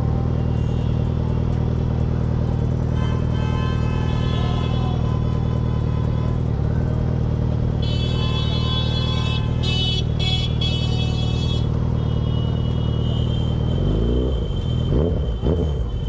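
Suzuki Hayabusa's inline-four engine running loudly at a slow, steady idle, then revved in quick rising and falling blips near the end.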